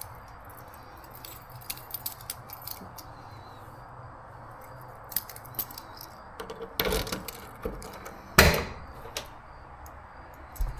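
Handling noises while working on a car: scattered light clicks and rattles, a thump about seven seconds in, and a louder sharp knock shortly after.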